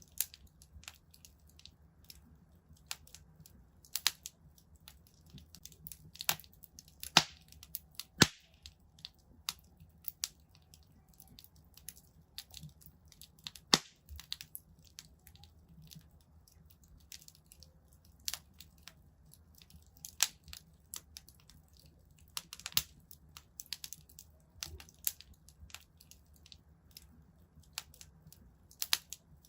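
Fireplace fire crackling: irregular sharp pops and snaps, a few noticeably louder than the rest, over a faint low steady rumble.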